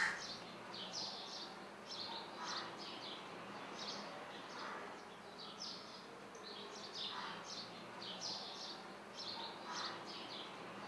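Faint chirping of small birds: short high calls repeating irregularly, about one a second, over quiet room tone.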